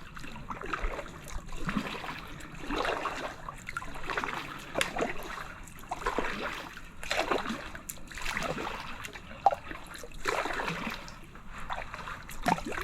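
Kayak paddle strokes in calm water, splashing and trickling with each dip of the blade, in a steady rhythm of about one stroke a second.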